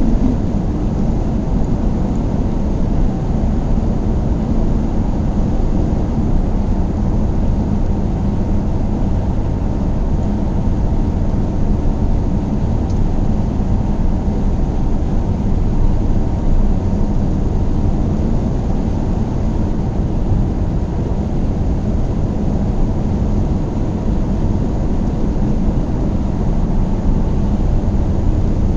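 A car driving along, with a steady low rumble of engine and road noise that stays even throughout.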